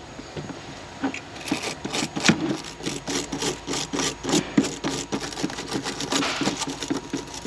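Wire brush scrubbing acid corrosion off a car battery terminal area, in quick back-and-forth scraping strokes about three a second, starting about a second in.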